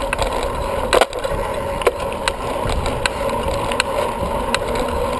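Bicycle rolling along pavement, heard from a camera on the bike or rider: a steady rolling rush with scattered sharp clicks and rattles.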